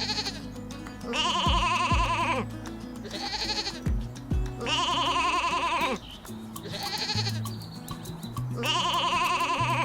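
Background music with an animal bleating over it: three loud, wavering bleats, each about one and a half seconds long, with two fainter ones between them.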